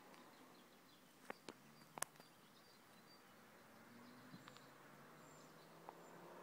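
Near-silent roadside ambience with a few sharp clicks and faint chirps; toward the end, the V10 engine of an approaching Audi S8 grows faintly audible, getting slowly louder.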